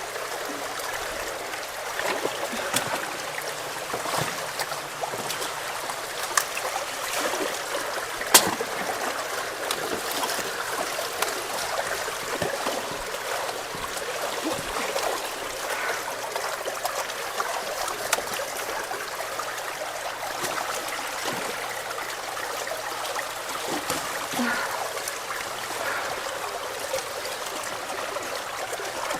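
Fast-flowing water rushing and splashing steadily, with scattered small knocks and one sharper knock about eight seconds in.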